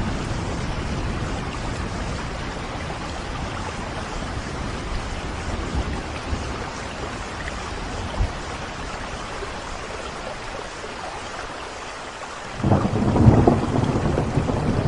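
Steady rain in a thunderstorm, with thunder rumbling at the start. The rumble fades for several seconds, then returns suddenly and louder near the end.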